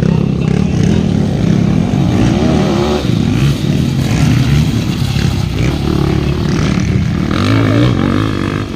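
Motocross bikes' engines racing, the revs rising and falling as they ride, with a climb in revs near the end.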